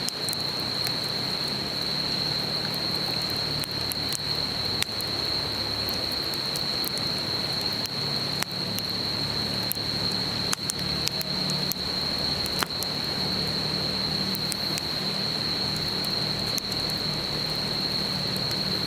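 Campfire crackling with frequent sharp pops, over the steady rush of a river and a continuous high-pitched insect trill.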